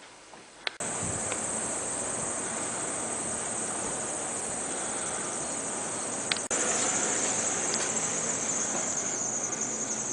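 Steady high-pitched chirring of a cricket, over a low hiss. It starts suddenly about a second in and grows louder about six and a half seconds in.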